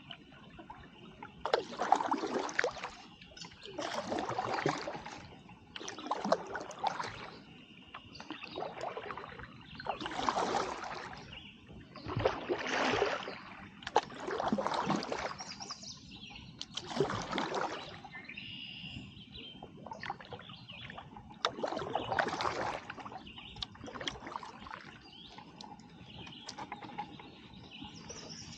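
Kayak paddle strokes, the blades of a Werner paddle dipping and splashing into the water about every two seconds, alternating sides. The strokes pause briefly past the middle and then come back weaker.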